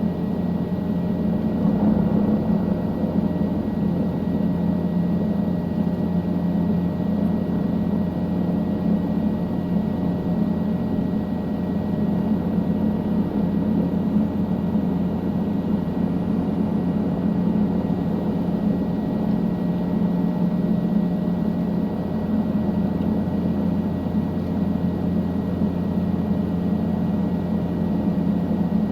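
Helicopter in flight heard from inside the cabin: a steady engine and rotor drone with a constant low hum that doesn't change.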